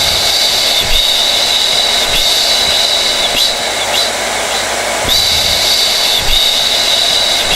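Hair dryer running continuously: a steady rush of blown air with a high motor whine, wavering slightly about once a second.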